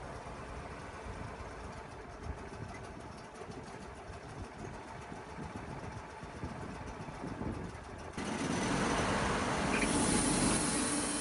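Sawmill running steadily at a low rumble; about eight seconds in it suddenly gets much louder, with a full hissing noise over a steady low hum.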